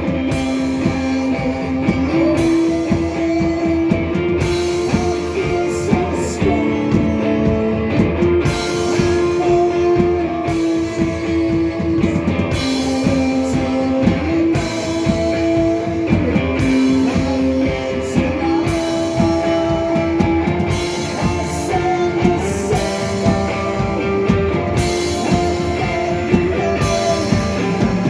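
Live rock trio playing an instrumental passage: electric guitar holding long notes that shift pitch every couple of seconds over a steadily played drum kit.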